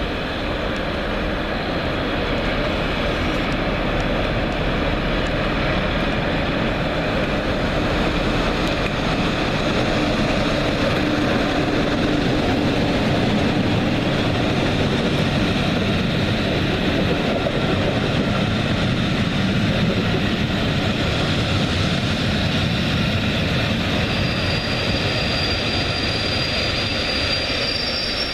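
London Underground train running at speed, a steady rumble and hiss. Near the end a thin high squeal of wheels on the rails begins.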